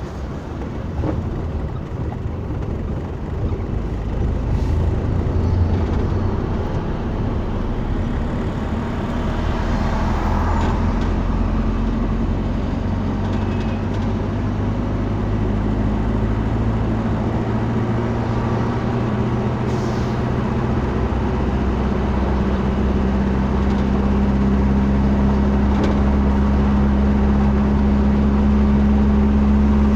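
A motor vehicle's engine running steadily, a low drone at one pitch that grows a little louder over the second half.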